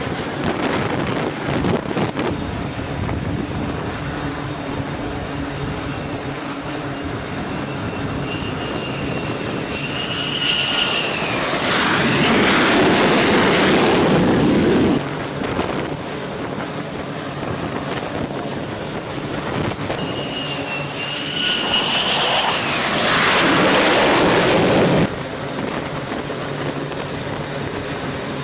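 Jet fighter engines running, with a steady whine and hiss. Twice a high whine rises and gives way to a louder surge of engine noise lasting a few seconds, each ending abruptly.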